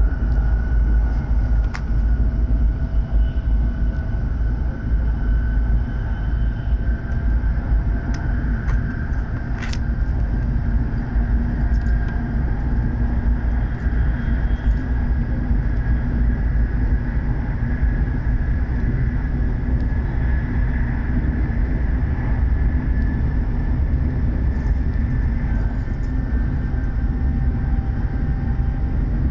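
Cabin running noise inside a W7 series Shinkansen car under way: a steady deep rumble with a faint high tone held throughout, and a sharp click about ten seconds in.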